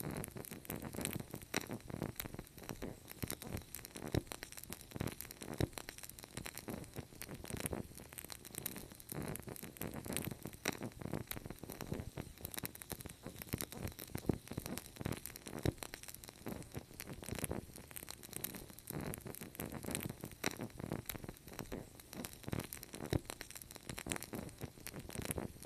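Wood fire crackling: dense, irregular snaps and pops over a low rumble of burning.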